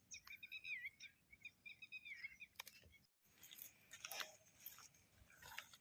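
Faint bird chirping, a run of short wavering calls in the first two seconds or so, then only faint rustling and clicks after a brief drop-out.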